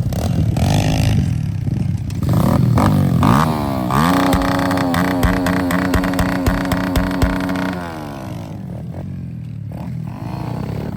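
Pit bike engine revving: its pitch climbs a little over three seconds in, holds high and steady for about four seconds, then drops away near eight seconds.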